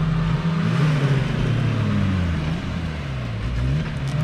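Two Suzuki 4x4 engines revving hard under load as the vehicles pull against each other in a tug-of-war, their pitch rising and falling repeatedly, over a steady hiss of spinning tyres and sand.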